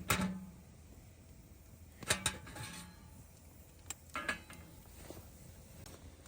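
Camp cookware and utensils being handled: short clinks and knocks in three small clusters, about two seconds apart.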